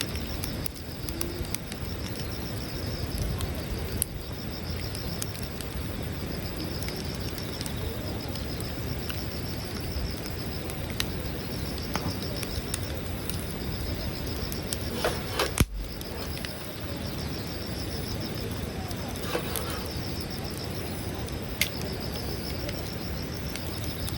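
Campfire crackling with scattered sharp pops, over crickets chirping steadily in a pulsing high trill.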